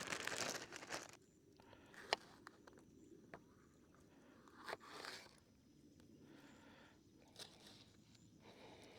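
Plastic bag crinkling for about a second, then a knife cutting into sweet peppers: faint crunches with a few sharp knocks spread through the rest.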